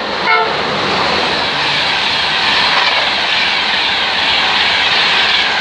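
A train passing close by at speed: a loud, steady rush of wheels on rail and air. It starts with a brief horn toot about a third of a second in.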